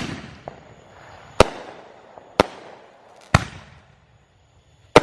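Fireworks exploding: three or four sharp bangs about a second apart, each followed by a fading echo.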